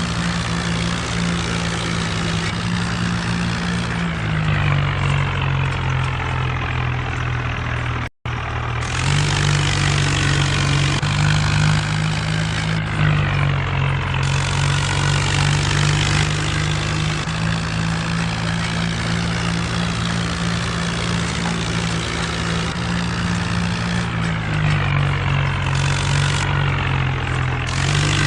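Mahindra Arjun tractor's diesel engine running steadily, its note dipping and rising slightly a few times. The sound cuts out for a split second about eight seconds in.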